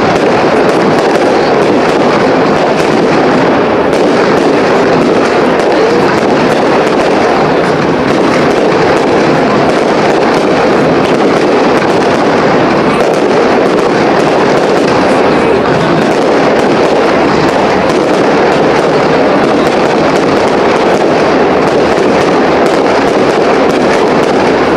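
Aerial fireworks shells bursting and crackling in a dense, continuous barrage that stays loud and steady throughout.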